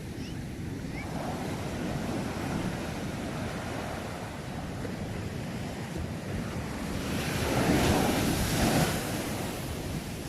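Sea waves washing onto the shore: a small swell about two seconds in, then a louder wave breaking and rushing in near the end. A low wind rumble on the microphone runs underneath.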